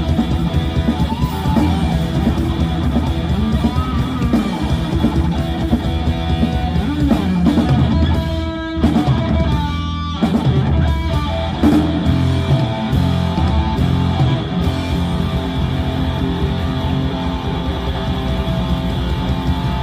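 Live rock band playing an instrumental passage: distorted electric guitars over bass and drum kit, with a short break in the low end about nine seconds in.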